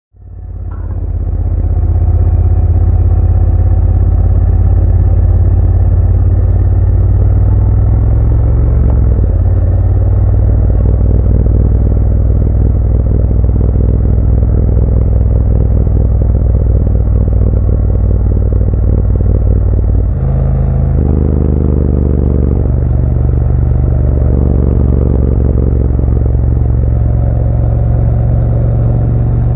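Motorcycle engine running steadily under way, fading in over the first second or two. About twenty seconds in it briefly drops, as at a gear change, then its pitch rises as the bike accelerates.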